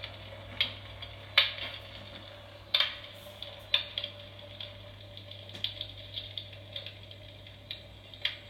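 Built-in wood-crackle sound effect of a Moonblaze S Lux electric fireplace insert: irregular snaps and pops of burning logs over a soft steady hiss, as if through a small speaker. The loudest pops come about one and a half and three seconds in, with a steady low hum underneath.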